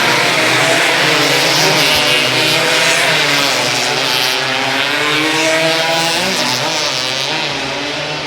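Several motorcycle engines racing at once, their overlapping pitches rising and falling as the riders rev and change speed.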